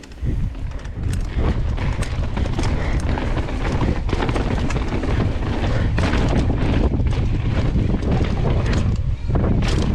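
Wind buffeting a helmet- or body-mounted camera microphone on a downhill mountain bike ride: a loud steady rumble that cuts in sharply at the start. Many quick knocks and rattles from the bike over rough trail ride on top of it.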